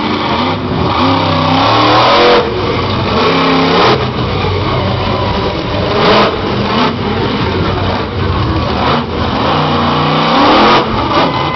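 Monster truck engine revving hard and dropping back again and again, its pitch rising and falling several times in quick succession, with loud surges of noise in between.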